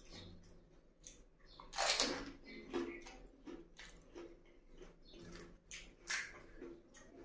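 Eating a water-filled pani puri: a loud wet crunch about two seconds in as the puri is bitten, then irregular crisp chewing. Near the end comes a crack as the next puri's hollow shell is broken open with the fingers.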